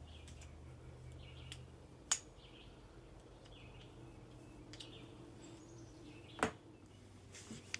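Two sharp knocks, about two seconds in and again about six and a half seconds in, from handling dryer panel parts or tools. A bird chirps faintly about once a second throughout.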